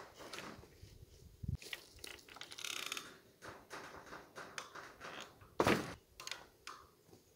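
Irregular knocks, clicks and scrapes of hand work on a field fence, with a low thump about a second and a half in and a sharp knock about five and a half seconds in.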